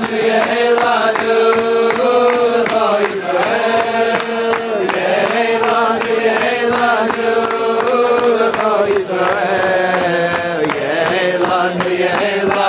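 A group of people singing a tune together, with steady rhythmic clapping about three times a second.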